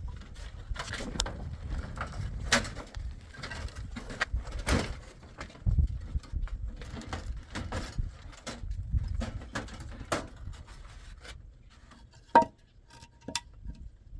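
Irregular knocks, clicks and clatter of things being handled, over a low rumble, with a single sharp ringing clink about twelve seconds in.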